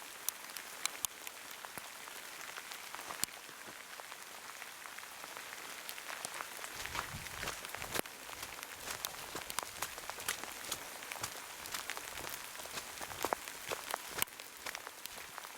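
Heavy rain falling steadily, with many sharp ticks of single drops striking close by.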